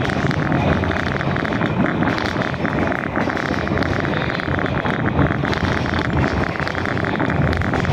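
Passenger rail car running along the track: a steady rumble and fast rattle from the wheels on the rails and the car body.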